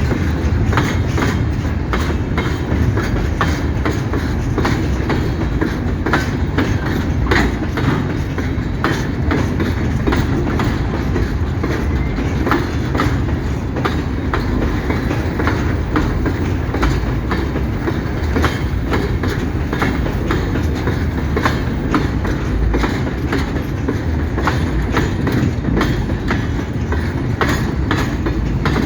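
Train of empty mining hopper wagons rolling steadily past, with a constant low rolling noise and dense, irregular clicking and clattering of wheels over rail joints.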